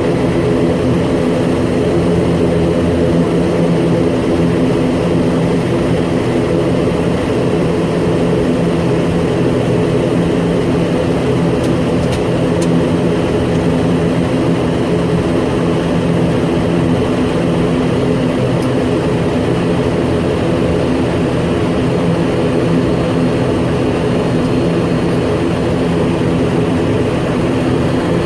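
Mil Mi-35 attack helicopter's twin turboshaft engines and rotor running steadily, a constant loud hum of several pitches.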